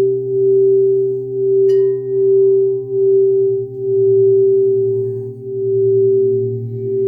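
Crystal singing bowls sounding steady, overlapping low tones that swell and fade about once a second in a slow pulsing beat. A brief, higher ringing tone is struck in under two seconds in and fades away.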